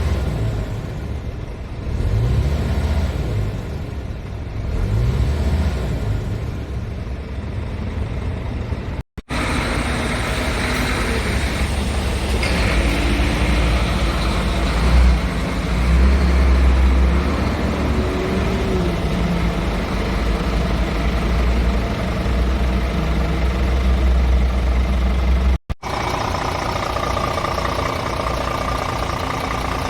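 Scania R500 tractor unit's 13-litre straight-six diesel running: its pitch rises several times in the first few seconds, then settles into a heavy steady drone. The sound cuts off abruptly twice, at edits.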